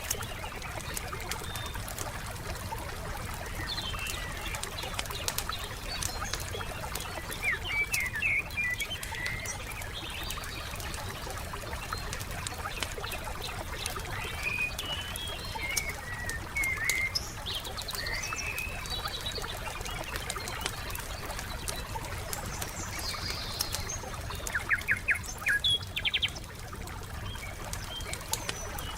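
Wood fire crackling with many small sharp pops, under scattered chirps and calls of songbirds. The birds call several times in the middle and give a quick run of notes near the end.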